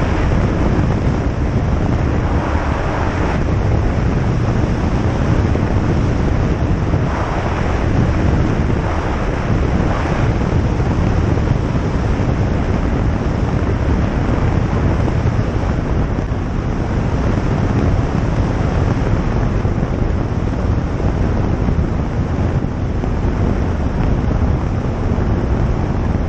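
Steady cabin noise of a single-engine light aircraft, its engine and propeller running under a constant rush of air.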